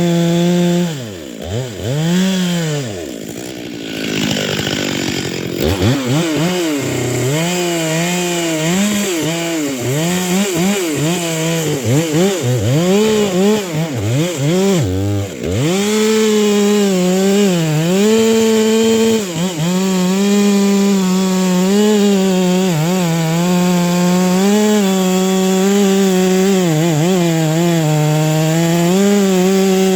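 Two-stroke chainsaw cutting wood. Its engine pitch drops and climbs back again and again over the first half, then holds mostly steady at high revs with a few brief dips.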